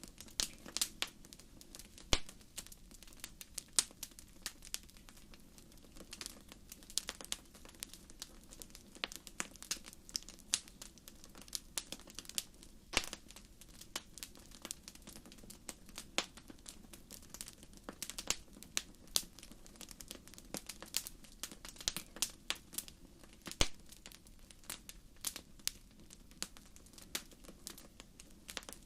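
Wood fire crackling: irregular sharp snaps over a faint steady background.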